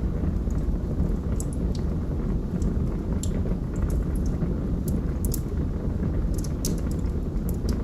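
Fire burning in a fireplace: a steady low rush of flame with irregular sharp crackles and pops, several close together at times.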